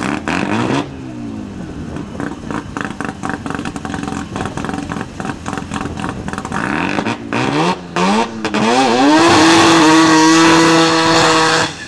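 Twin-turbo Mazda RX-7 rotary engine running choppy and uneven with quick rising revs. Just before nine seconds in it revs up and holds at a steady high rpm for about two and a half seconds, then drops off abruptly.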